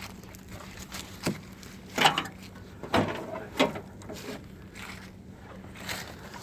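A handful of sharp knocks and clacks from hands working on a tractor's key and battery area, spaced irregularly, over a steady low hum.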